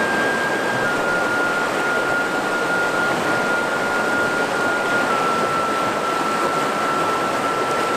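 Mountain river water rushing steadily over rocks, with a thin high steady whine running through it that steps slightly down in pitch a few times.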